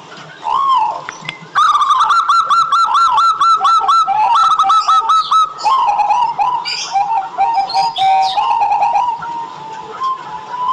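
Local zebra dove (perkutut) singing: a couple of separate cooing notes, then a long, rapid run of short, clear staccato coos at about the same pitch. Fainter higher chirps from other birds sound over it.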